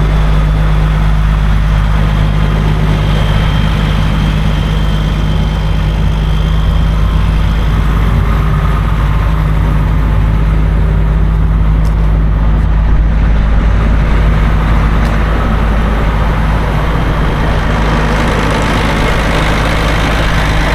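2006 John Deere 9320 articulated tractor's diesel engine running steadily at a constant speed, a deep even drone with no revving.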